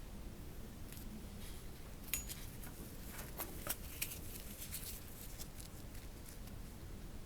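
Marble machine automaton running: a scatter of light clicks and ticks as a marble and small parts knock along the mechanism, thickest between about one and six seconds in, with one brief high ping a little after two seconds.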